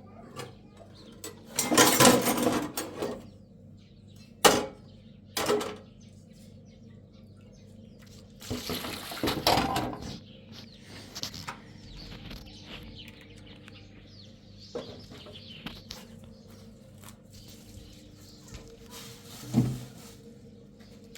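Irregular clatters and knocks, with two louder rustling bursts, over a faint steady hum.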